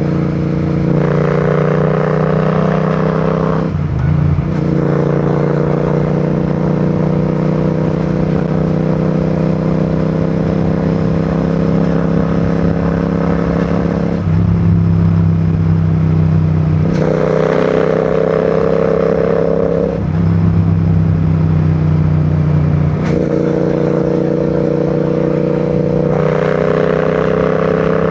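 Royal Enfield Continental GT 650's 648 cc parallel-twin engine and exhaust under way. The engine note climbs slowly and changes pitch in steps several times.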